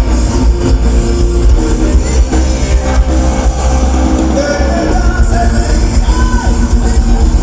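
Loud live band music with a heavy, steady bass.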